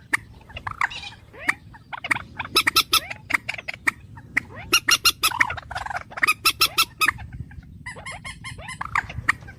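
Bird calls: rapid runs of short, sharp chirps and chattering trills in several bursts with brief pauses between them.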